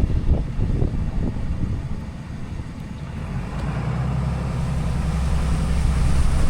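Diesel pickup truck running and driving, a steady low rumble that grows louder over the second half, with a few low thumps near the start.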